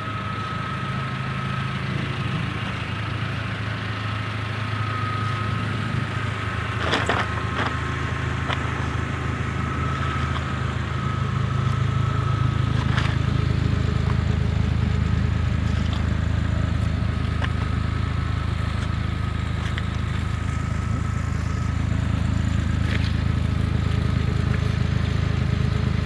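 Honda CRX engine idling steadily, growing a little louder and deeper about eleven seconds in, with a few clicks around seven seconds.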